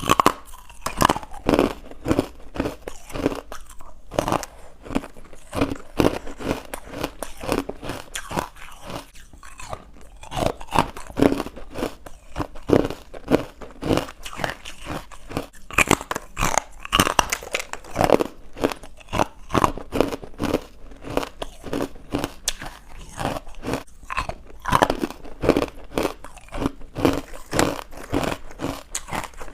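A person biting and chewing crunchy carbonated white ice bites close to the microphone: a steady run of sharp crunches, several a second.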